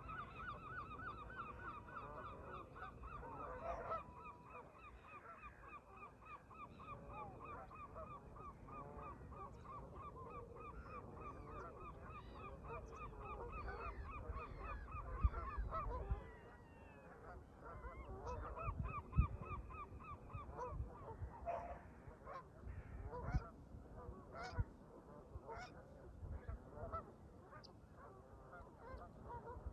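Canada geese honking in a long, rapid run of calls, several a second, fading out and returning more scattered. Wind rumbles on the microphone beneath them.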